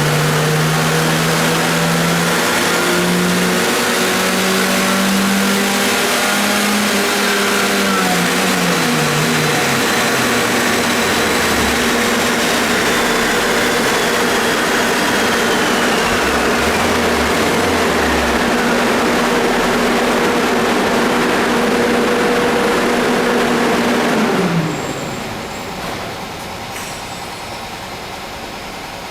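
Car engine running hard on a chassis dynamometer. Its pitch climbs in steps, then holds at one high pitch for about fifteen seconds. Near the end the throttle closes and the engine note drops away sharply, leaving a quieter whir of the rollers winding down.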